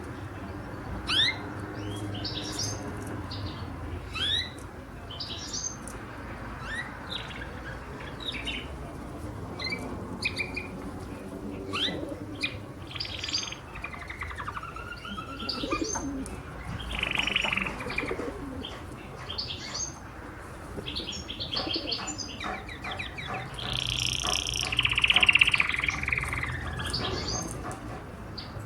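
Canary singing: a string of short rising chirps and quick trills, building to a louder, longer trill near the end.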